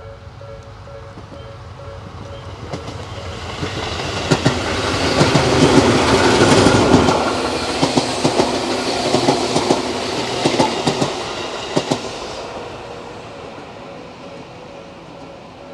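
Tobu 10030-series electric commuter train passing, its wheels clicking sharply over the rail joints. The rumble builds over about four seconds, is loudest around six to seven seconds in, and fades away over the last few seconds.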